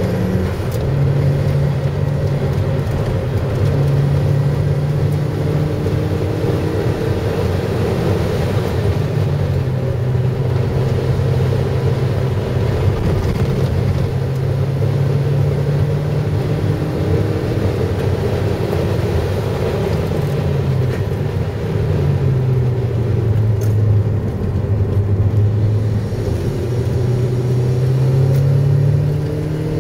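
Car engine running hard at track speed, heard from inside the cabin with tyre and wind noise. The engine note holds, drops twice and climbs back up.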